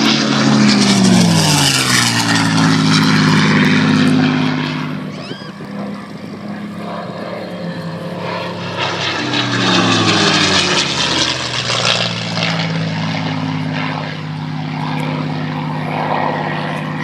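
Piston-engined propeller aircraft flying low past, twice: the engine note drops in pitch as one goes by about a second in, and again a little past halfway, with a steady engine drone between.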